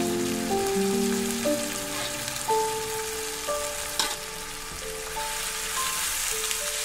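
Food sizzling in hot oil in a wok, a steady crackling hiss, under background music of held, slowly changing notes. A single sharp tap about four seconds in.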